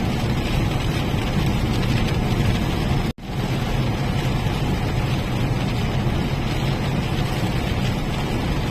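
Steady road and engine rumble heard inside a moving car, with a brief sharp dropout about three seconds in.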